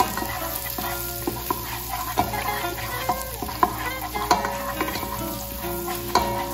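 Chopped garlic and onion sizzling in oil in a coated pot, stirred with a wooden spatula that scrapes and taps the pot bottom about once a second.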